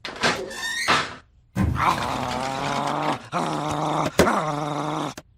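A short scuffling burst, then a low animal growl held in three long stretches.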